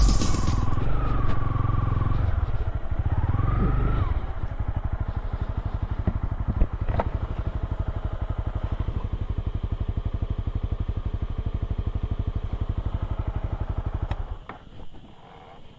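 Motorcycle engine running with an even, rapid pulse, which stops about fourteen seconds in.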